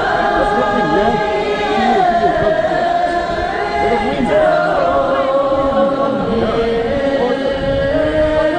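Buddhist chanting: many voices chanting together in long held tones that slide slowly in pitch.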